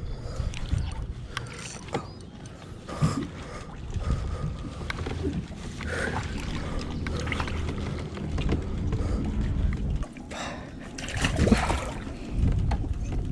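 Kayak on the water: a steady low rumble of water and movement with scattered knocks and clicks, and a few brief swishes near the end.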